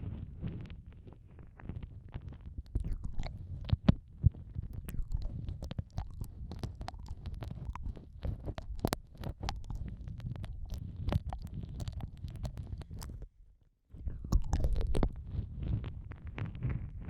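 Close-up ASMR ear-eating mouth sounds: wet clicks, licks and nibbling pressed against the microphone over a low rumble, breaking off briefly about thirteen seconds in.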